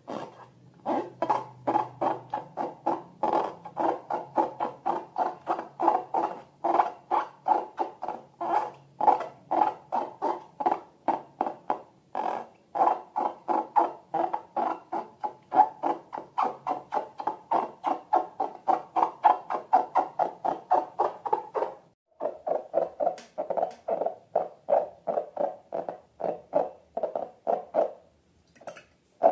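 Slime being worked by hand or stirred, making a steady run of squishy, squeaky strokes about three or four times a second, with a short pause about 22 seconds in.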